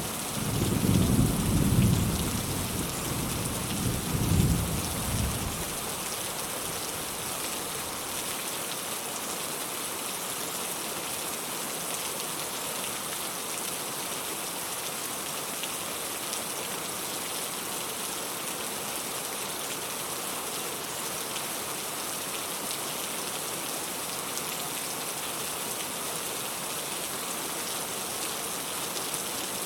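Steady rain falling, with a roll of distant thunder rumbling low in the first few seconds. The thunder swells twice and fades out by about six seconds in, leaving only the rain.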